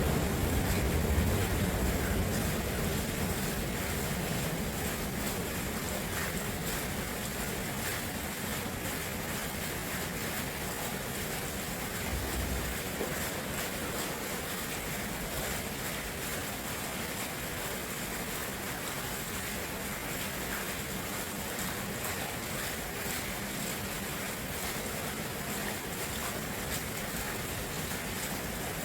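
Flowing water rushing steadily, with a louder low rumble in the first few seconds that fades away.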